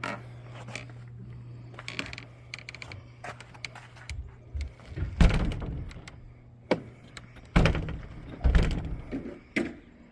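A series of knocks, thuds and clatter, several of them heavy, over a steady low hum.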